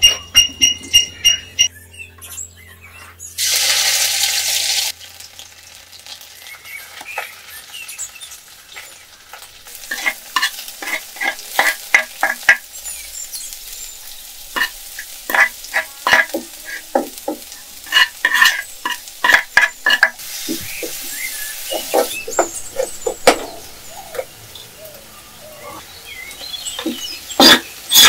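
Ingredients sizzling in hot coconut oil in a metal wok over a wood fire, with loud bursts of sizzling about three seconds in and again about twenty seconds in. Between the bursts a metal spoon clinks and scrapes as the food is stirred.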